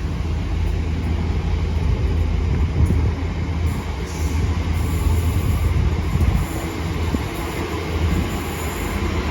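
Two coupled Class 323 electric multiple units running out of the station, with a steady low rumble of wheels on the rails.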